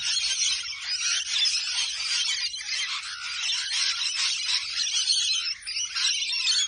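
A flock of rainbow lorikeets chattering and screeching: a dense, continuous din of many overlapping shrill calls.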